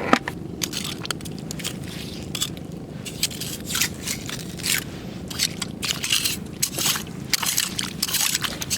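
Footsteps crunching and scraping irregularly over rocks and shell grit on a shore at low tide, with sharp gritty clicks every fraction of a second.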